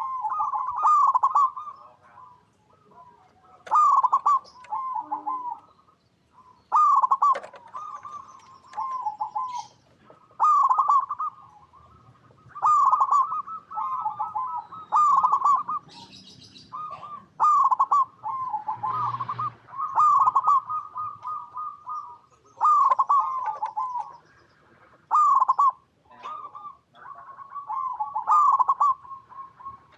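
Zebra doves (perkutut) cooing: repeated phrases of quick, rolling coo notes, a new phrase every two to three seconds.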